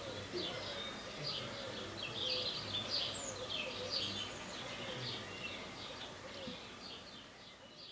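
Small birds chirping repeatedly, the sound gradually fading out near the end.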